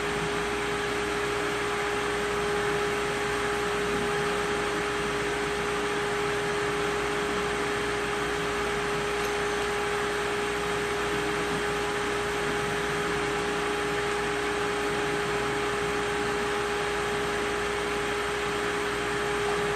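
Steady machine hum with a constant humming tone over even noise, unchanging throughout; there are no tool strikes or impacts.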